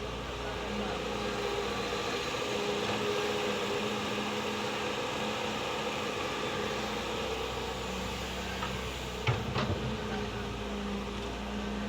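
Excavator engine running steadily, with one sharp knock about nine seconds in followed by a couple of smaller ones.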